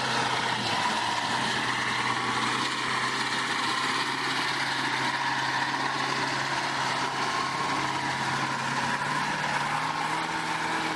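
A vehicle engine, most likely a truck's, running at a steady speed with a low hum and a faint whine above it; its pitch steps up slightly about nine seconds in.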